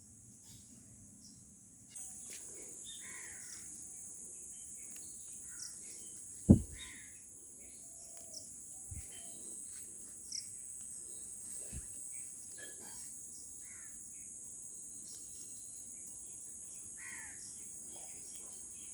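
Morning outdoor ambience: a steady high insect drone with crows cawing now and then. A sharp, loud knock about six and a half seconds in, and two fainter knocks a few seconds later.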